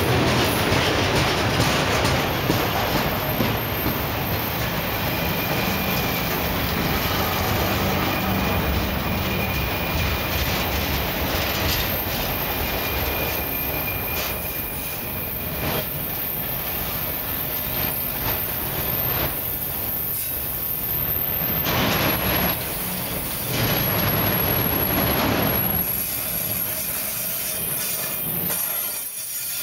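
Loaded autorack freight cars rolling past close by: a steady rumble and rattle of wheels on the rails, with occasional knocks and thin high-pitched wheel squeals that come and go.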